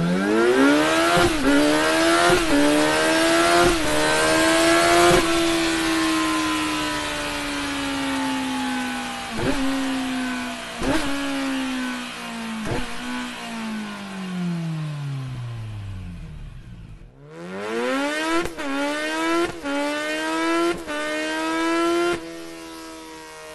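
Sport motorcycle with an Akrapovic exhaust accelerating hard through the gears, the engine note climbing and dropping sharply at each of four upshifts, then falling away for several seconds. After a brief dropout it makes a second run, climbing through four more quick upshifts.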